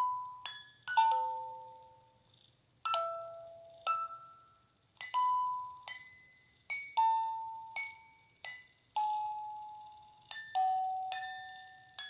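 A slow, gentle lullaby melody played as single bell-like chime notes, each struck and ringing out to fade, about one note a second, over a faint low hum.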